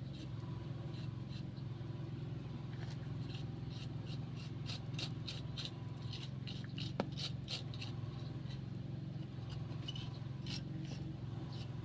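Steady low hum under a run of short scrapes and clicks from something being handled, with one sharp click about seven seconds in.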